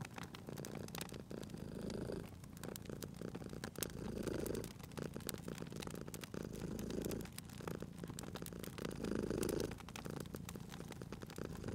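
Domestic cat purring steadily, swelling louder about every two and a half seconds with each breath, over the sharp irregular pops and crackles of a wood fire.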